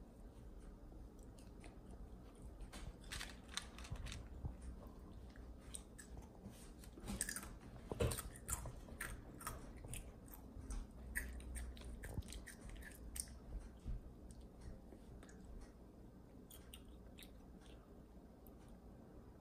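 A young child chewing and crunching snack food, a run of small crackly crunches and mouth clicks, the loudest about eight seconds in, thinning out in the last few seconds.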